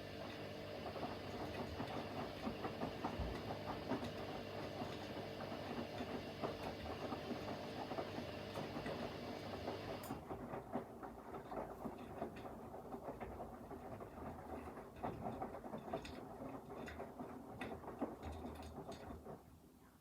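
Front-loading washing machines mid-wash: drum motor humming steadily while wet laundry tumbles with a stream of soft knocks and clicks. A hiss in the upper range stops suddenly about halfway through, and the sound drops away near the end.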